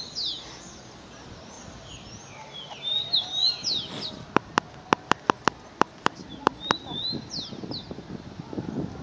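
Wild birds calling, with quick falling whistled notes and short trills repeated several times. In the middle comes an uneven run of about ten sharp clicks.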